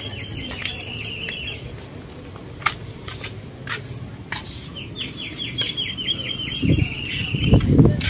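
A bird calling in two quick chattering trills of high notes, one at the start and another about five seconds in. A low rumble comes near the end.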